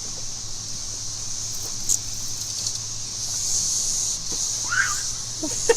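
Chorus of many cicadas in a tree: a steady high-pitched drone, loud, swelling a little after the middle.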